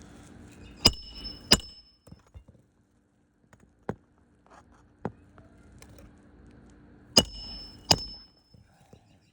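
Hammer striking a roof snake to drive a roofing nail in under a shingle: two sharp metallic strikes, each with a brief ring, then a few light taps, then two more strikes near the end.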